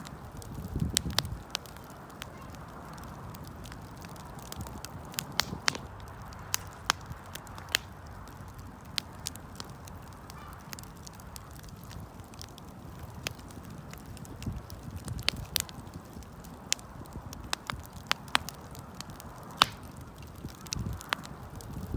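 Wood bonfire burning, with sharp pops and crackles scattered irregularly over a steady hiss of flame. There are a few brief low rumbles.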